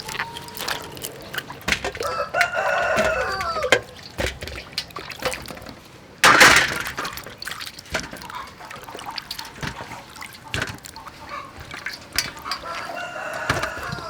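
A rooster crowing twice, each crow lasting a second or two, about two seconds in and again near the end. A brief loud rush of noise comes about six seconds in, with scattered clicks and knocks throughout.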